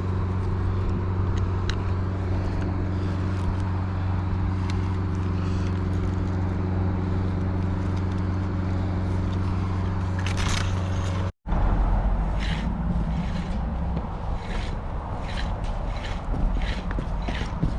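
Lorry's diesel engine running steadily, heard from inside the cab as an even hum. About eleven seconds in the sound cuts off abruptly and gives way to a lower, rougher rumble with scattered clicks and rattles.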